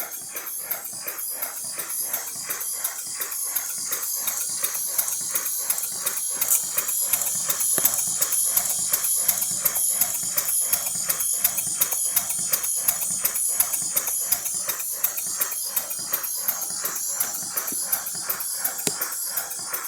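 5-inch gauge live-steam model locomotive running, its exhaust beating in a rapid, even rhythm of several chuffs a second over a steady hiss of steam. It grows louder a few seconds in and eases off again toward the end.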